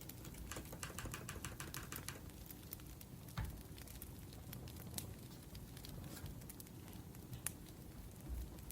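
Laptop keyboard typing, a quick run of keystrokes for about a second and a half near the start, over a wood fire crackling with a few sharp pops.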